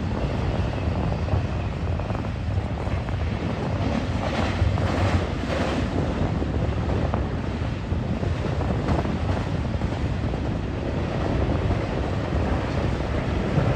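Double-stack container freight train rolling past, a steady noise without clear engine tones, with wind buffeting the microphone.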